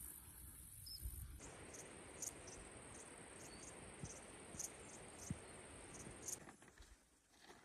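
Faint insects chirring in a steady, high, continuous buzz. A soft hiss joins it about a second and a half in, with a few light clicks, and stops abruptly near the end.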